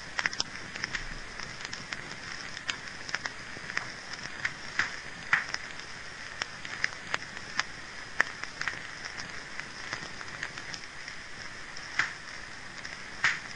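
Wood fire crackling in a fireplace: irregular snaps and pops over a steady hiss, with louder pops about five seconds in, around twelve seconds, and near the end.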